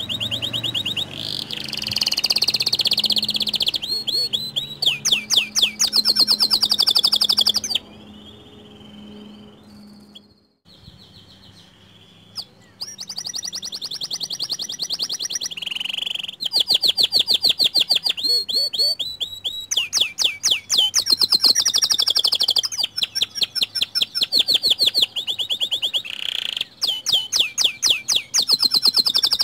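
White canary singing in long, fast trills of rapidly repeated high notes. The song breaks off for a few seconds about a third of the way in, then starts again.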